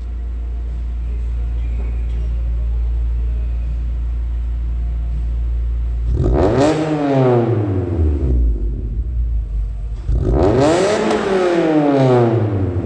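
Honda Accord Type-R's 2.2-litre four-cylinder VTEC engine heard through its exhaust with a slim middle silencer box: a steady idle, then two throttle blips about six and ten seconds in, each rising sharply in pitch and falling slowly back to idle.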